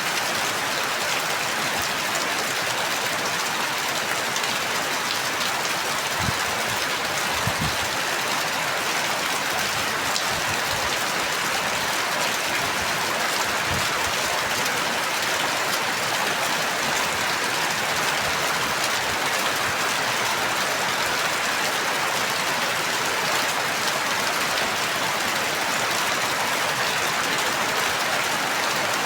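Steady, heavy rain falling and pattering on a surface, with a few faint low thuds.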